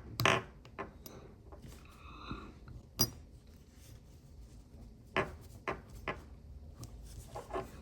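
Small metal watchmaking tools clicking and tapping against a watch movement while trying to free a wheel seized in its jewel: a handful of separate sharp clicks, the loudest about three seconds in.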